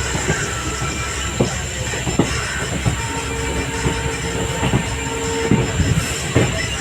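Indian Railways ICF passenger coach running along the track: a steady rumble with wheels clacking over rail joints at irregular intervals. A train horn sounds a held note from about three seconds in, lasting about two and a half seconds.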